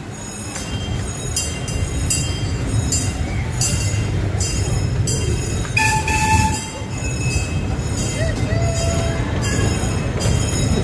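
Small amusement-park train running along its track: a steady low rumble that grows slightly louder, with many light clicks, and one short horn toot about six seconds in.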